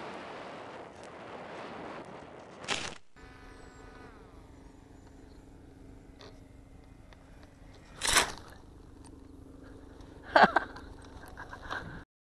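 A rushing noise that fades, then a low steady hum with a brief falling whine, broken by a few sharp knocks; the loudest knocks come about eight and ten seconds in.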